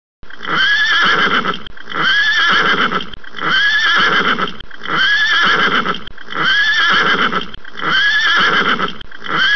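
Horse whinnying. The same short whinny, its pitch rising and then falling, repeats seven times about a second and a half apart, like a looped recording.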